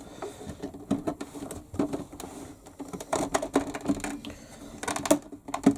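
Hard plastic clicking and knocking as the toy washing machine's plastic cabinet is handled and worked apart: scattered sharp clicks, bunched about three seconds in and again near the end.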